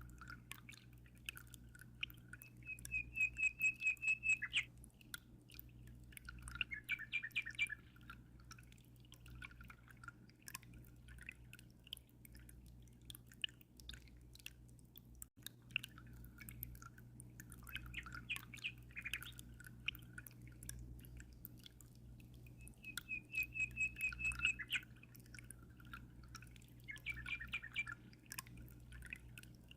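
A songbird singing in repeated phrases: a fast, even trill and shorter warbled notes, with gaps of a few seconds between them, over a steady low hum.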